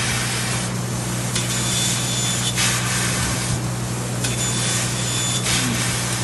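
CNC laser cutting machine working sheet metal: a steady low hum under recurring bursts of hiss about every three seconds, each alternating with a thin high whistle.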